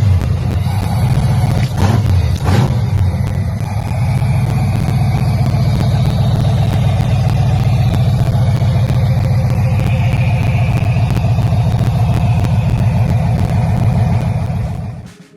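Car engine running steadily with a loud, deep rumble, with a couple of brief knocks early on; it cuts off just before the end.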